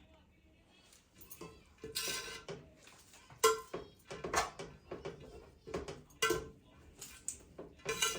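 Dishes and cutlery clinking and knocking together as they are handled: a run of sharp clinks, each with a short ring, the loudest about three and a half seconds in.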